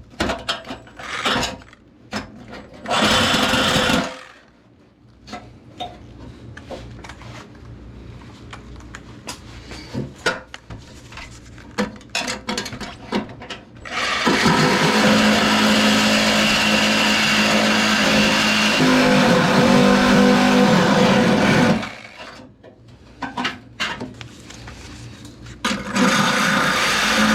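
A power tool working sheet metal in bursts: one brief run a few seconds in, one long steady run of about eight seconds in the middle, and another starting near the end. Light clicks and taps of metal being handled fill the gaps between runs.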